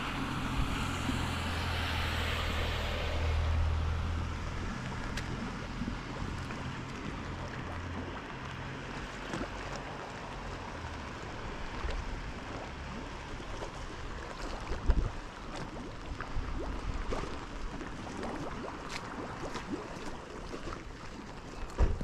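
A motor engine hums low and steady, then fades away after about ten seconds, over a steady wash of rain with scattered small ticks.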